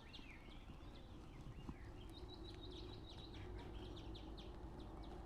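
Faint birds chirping: scattered short calls that rise and fall, then a quicker run of chirps from about two seconds in, over a low, even outdoor hiss.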